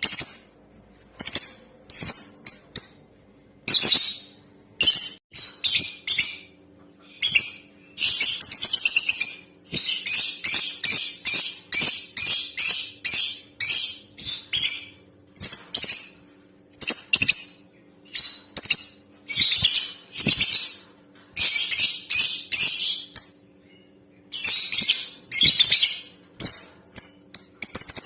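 Female lovebird calling in short, shrill chirps that come in bouts, with a dense, fast run of chirps about ten seconds in. A faint steady low hum runs underneath.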